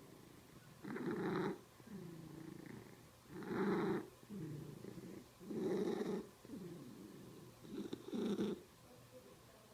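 Cat purring close up in a steady breathing rhythm: a louder, rougher phase comes about every two and a half seconds, four times, with a softer, lower phase between.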